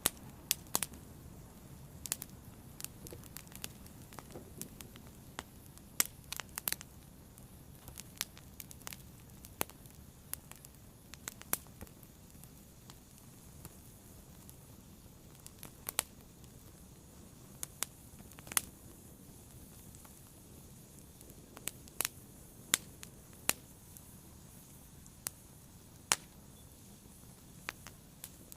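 Wood fire crackling: irregular sharp pops and snaps over a faint low rumble of the flames.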